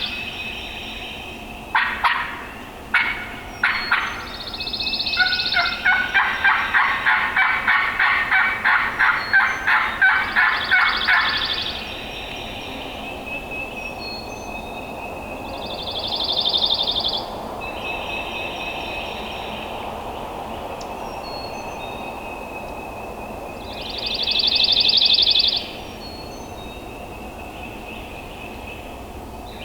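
Wild turkey gobbler gobbling repeatedly, each gobble lasting about a second and a half, several seconds apart. A fast run of about a dozen loud calls sits in the middle, with fainter birdsong between the gobbles.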